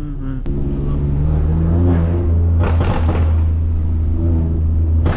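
BMW S55 twin-turbo inline-six through catless 3.5-inch downpipes and an open valved axle-back exhaust, droning under light throttle with the pitch rising slowly. About two and a half seconds in comes a burst of loud exhaust pops and cracks, with more right at the end.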